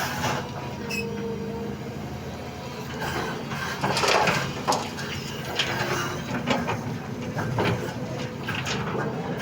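Doosan 220 hydraulic excavator's diesel engine running steadily, with a series of sharp metallic clanks and scrapes from about halfway in as the bucket works through rock while loading ore.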